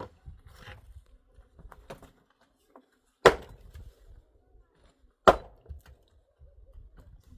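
Two sharp chopping strikes on wood, about two seconds apart, with faint small knocks and handling noise between them.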